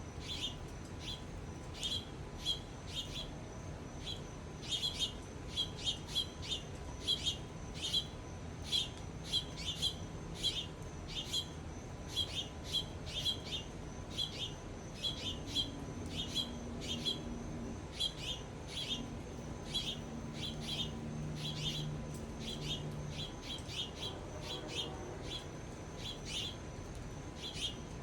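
Small birds at a backyard feeder chirping over and over: short, high chips, often several a second.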